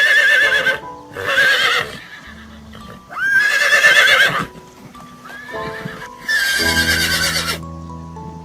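Horse whinnying, four long quavering neighs and a short one, over background music with steady held notes.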